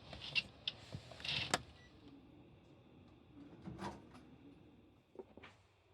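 Faint, scattered handling sounds: a few light taps and a short rustle in the first two seconds, a soft knock near four seconds in, and two small ticks near the end.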